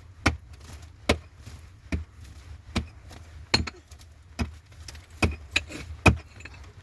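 A digging tool strikes hard ground over and over, in a steady rhythm of about one blow a second, each a sharp hit with a slight clink.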